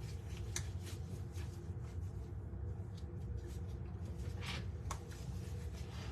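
Steady low hum of room noise, with a few light clicks and short rustles scattered through it.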